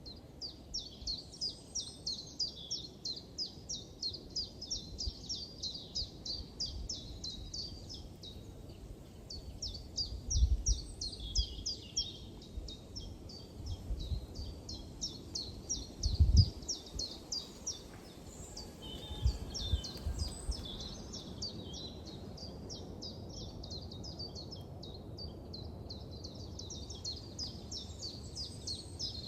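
A small songbird singing long runs of rapid, high, evenly repeated chirps, about four a second, with a pause in the middle. A few low thuds sound under it, the loudest about sixteen seconds in.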